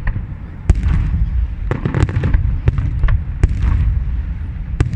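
Fireworks display: a constant low rumble of launches and bursts, with a dozen or so sharp cracks and pops scattered irregularly over it.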